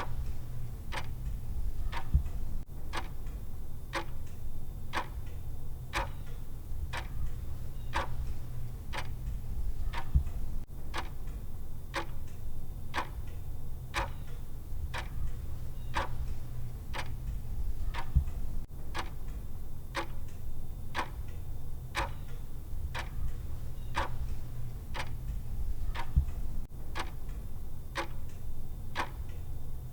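Countdown timer's clock-style tick sound, ticking at an even pace, over a steady low hum.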